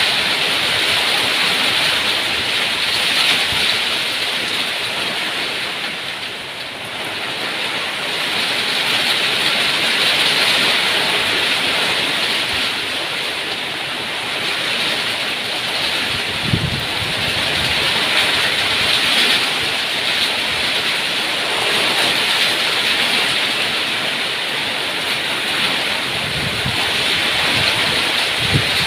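Steady heavy rain, a dense hiss that swells and eases every few seconds, with a few faint low thuds.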